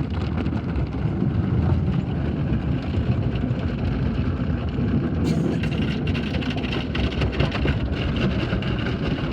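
Automatic tunnel car wash heard from inside the car: a steady, heavy rumble of water and machinery working over the car body. A higher hiss with rapid small ticks joins about five seconds in.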